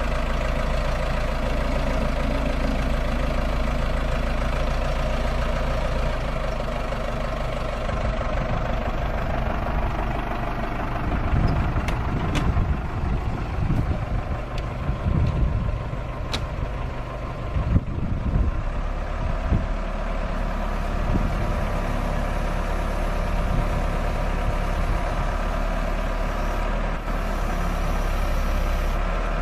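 2001 Case 580 Super M backhoe loader's four-cylinder diesel engine running steadily. For roughly ten seconds in the middle the low rumble turns uneven, with a couple of sharp clicks, then it settles back to an even run.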